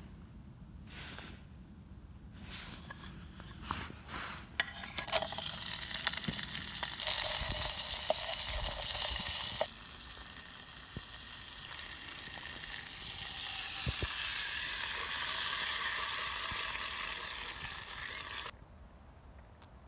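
Chorizo sizzling as it fries in an aluminium camping pot over a hobo wood stove, heard in two stretches that each cut off suddenly, the first loudest, with a few light knocks of utensils before the sizzling starts.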